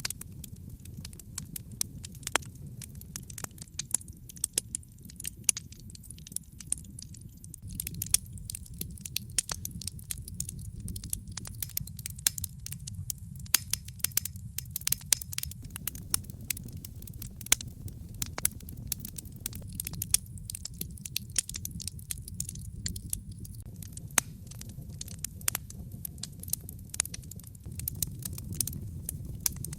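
Wood fire in a fireplace crackling and popping, with many irregular sharp snaps over a steady low rumble of the flames.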